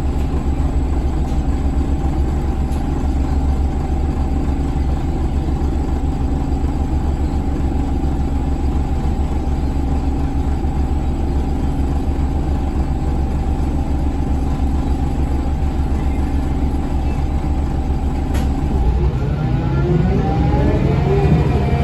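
Scania L94UB bus's DC9 five-cylinder diesel engine running steadily at idle, then rising in pitch near the end as the bus accelerates.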